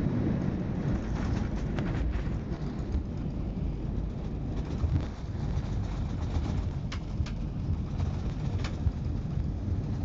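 Airbus A319 heard from inside the cabin while on the runway during a touch-and-go: a steady low rumble from the rolling aircraft, with a few sharp clicks or rattles late on.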